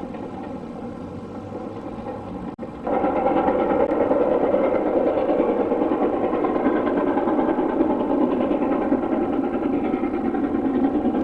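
LMS Black 5 4-6-0 steam locomotive No. 44767 running on the main line, a steady dense mechanical sound. About two and a half seconds in it cuts abruptly to a louder, closer passage that holds steady.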